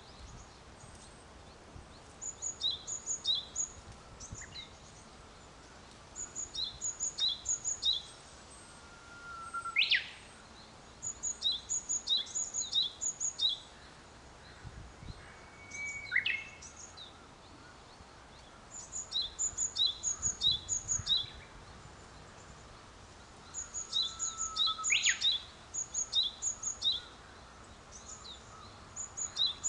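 Songbirds singing: one bird repeats a short phrase of quick, high, alternating two-pitched notes every few seconds. Three times another call holds a lower note and then sweeps sharply upward.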